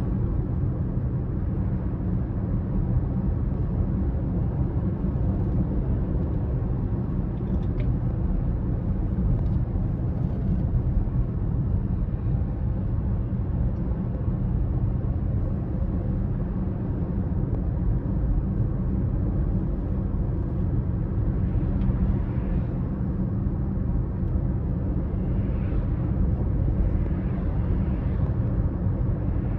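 BMW X5 30d's 3.0-litre straight-six turbodiesel and tyres running steadily on the road: a deep, even rumble with no revving or gear changes.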